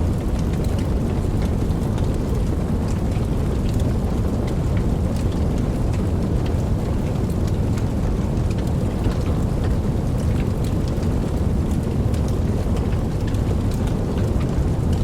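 Steady rain: a dense, even hiss and low rumble of falling water, with scattered individual drops ticking sharply through it.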